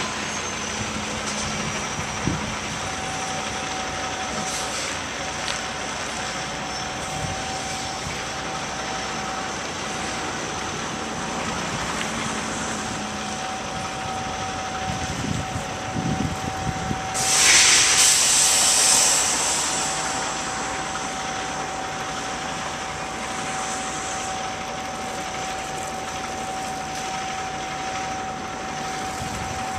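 Delivery truck running steadily, with a thin steady whine over the engine noise. About two-thirds of the way through, a loud burst of hiss lasts a couple of seconds, the loudest thing heard.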